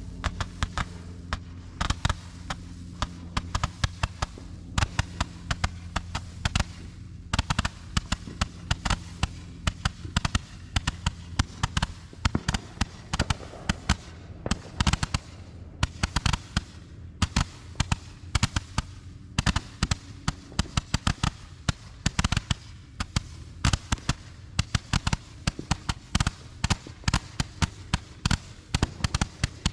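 Consumer fireworks crackling: a dense, irregular run of sharp cracks and pops, several a second, without let-up.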